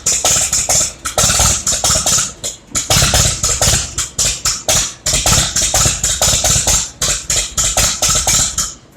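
Massey Ferguson Super 90 gasoline tractor engine being cranked by its starter without catching, a steady pulsing of about six compression strokes a second. It is being cranked unchoked and does not fire.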